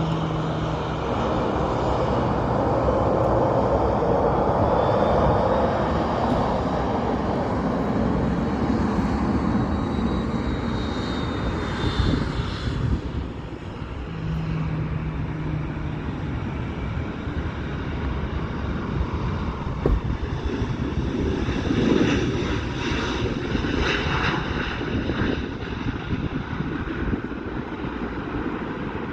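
Airbus A320neo's jet engines running, a steady rush of engine and air noise throughout. A brief low hum comes in about halfway through.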